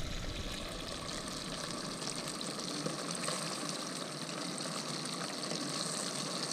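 Bream deep-frying in 375° oil in a small Fry Daddy electric fryer: a steady, dense sizzle and crackle just after the fish have gone into the oil.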